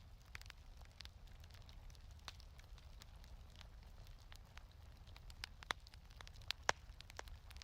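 Wood fire crackling in a fireplace: scattered snaps and pops over a soft low rumble, with a few sharper pops in the second half.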